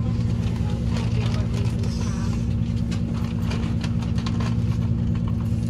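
Cabin noise aboard a Cross Country Voyager diesel train under way: a steady low engine and running drone with irregular clicks and rattles from the wheels and carriage.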